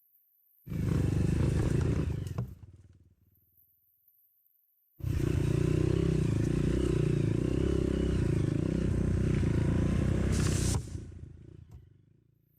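Dirt bike engine running hard in two stretches: a short one under two seconds long, then a longer steady one of about six seconds. Each starts abruptly and fades away.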